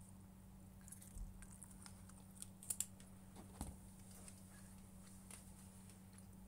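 Faint eating sounds: a few small clicks and taps, sharpest a little before and after the middle, over a steady low electrical hum.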